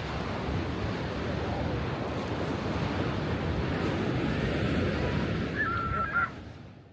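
Ocean surf washing in, with strong wind buffeting the microphone, fading out near the end.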